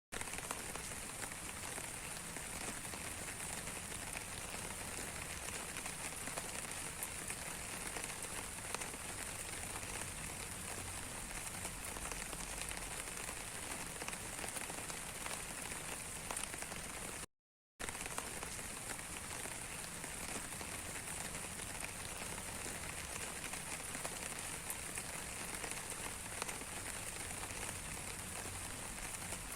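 Rain falling steadily, a continuous hiss dotted with many small ticks of single drops. The sound cuts out completely for about half a second roughly seventeen seconds in.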